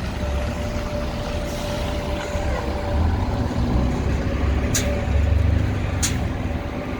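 City street traffic: heavy vehicles such as trucks or buses running past with a deep steady rumble and a constant engine tone. Two short, sharp high clicks or hisses come about five and six seconds in.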